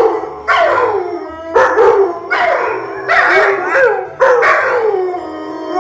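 Dog howling in a string of short howls, each sliding down in pitch, about one a second.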